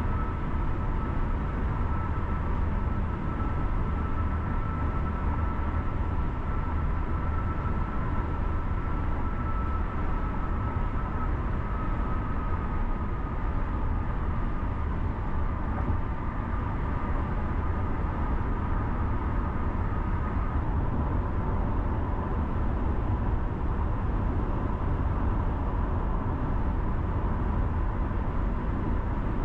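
Steady road noise of a car driving: low tyre and engine rumble, with a faint high whine that stops about two-thirds of the way through.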